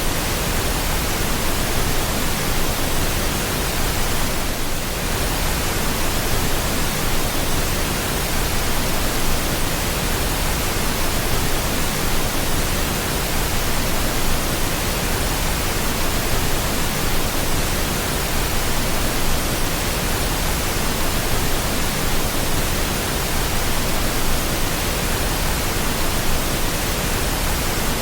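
Steady pink noise: a constant, even hiss spread across all pitches, with no rhythm or changes.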